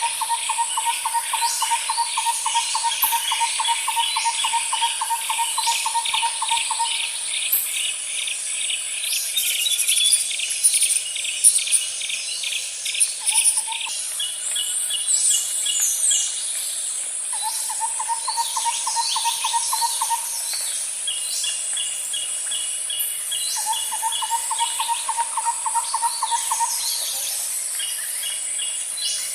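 Natural ambience of several birds singing, with rapid runs of repeated chirping notes, over a steady high-pitched insect drone. A lower, even trill lasting a few seconds comes and goes several times.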